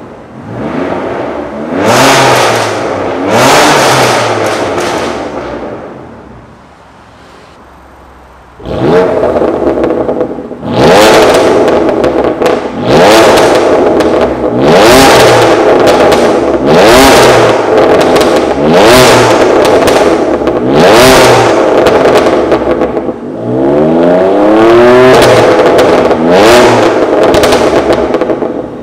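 BMW M4 F82's twin-turbo straight-six revved through an iPE valved catback exhaust: two quick blips, a short idle, then a run of repeated revs about every two seconds, pitch climbing and dropping each time, ending on a longer rev that falls back down.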